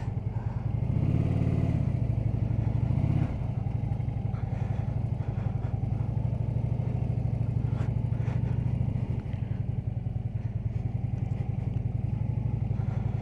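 Harley-Davidson V-twin motorcycle engine running with its low, pulsing beat, the revs rising a little about a second in and dropping back around three seconds in.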